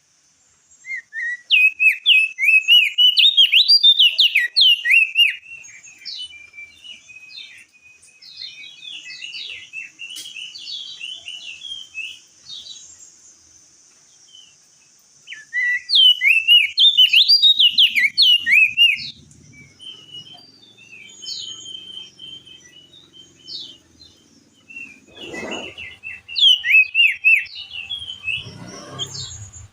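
Crested white-eye (opior jambul) singing in loud bursts of rapid, twittering notes, three bursts with softer chatter between them. Two dull thumps come near the end.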